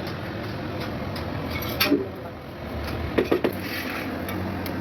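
Metal parts clinking as they are handled: one sharp clink about two seconds in and a quick run of three or four ringing clinks a little past three seconds, over a steady low background hum.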